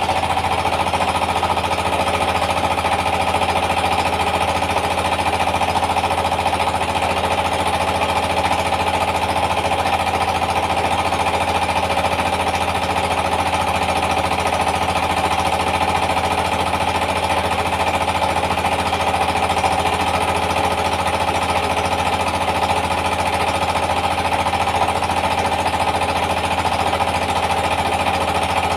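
Yanmar TS 230 single-cylinder diesel engine running steadily, driving a rice mill.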